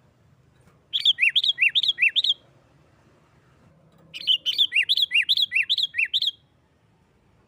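Sooty-headed bulbul (kutilang) singing in the loud, rapid 'nggaruda' fighting style: two phrases of quick, down-slurred whistled notes alternating high and low, about five notes a second, the second phrase longer. This aggressive song is the kind used to provoke other bulbuls into answering.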